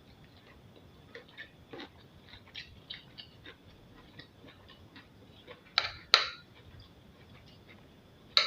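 A person eating abacha (cassava-shred African salad): chewing with many small, irregular mouth clicks. Two louder, sharper sounds come close together about six seconds in.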